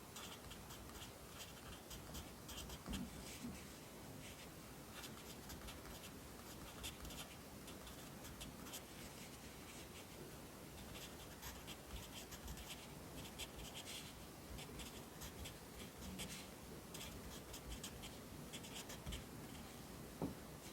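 Pencil writing Korean characters on paper: clusters of short scratching strokes with brief pauses between letters, and a soft knock near the end.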